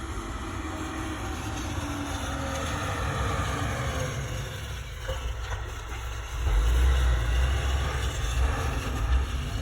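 Snowplow truck engine running as it passes along the road, growing louder with a heavy low rumble about six and a half seconds in.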